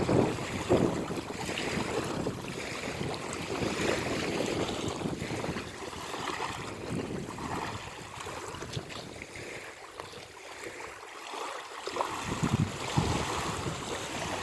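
Seawater splashing and sloshing around a swimmer, with wind buffeting the microphone in low rumbling gusts near the start and again near the end.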